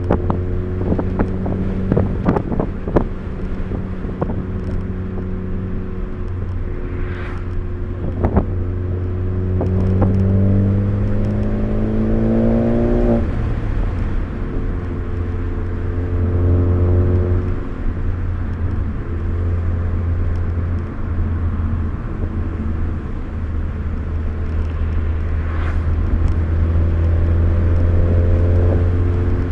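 Car engine and road drone heard from inside the cabin on a spirited drive. The engine note climbs steadily for a few seconds, then drops sharply about thirteen seconds in as the driver shifts or lifts, and climbs again near the end. A few sharp clicks or knocks sound in the first several seconds.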